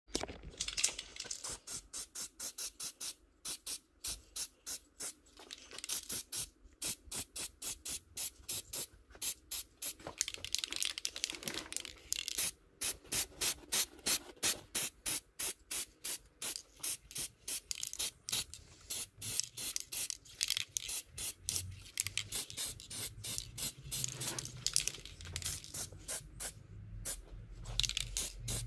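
Spray paint hissing in rapid, short, repeated bursts as car pedals are coated.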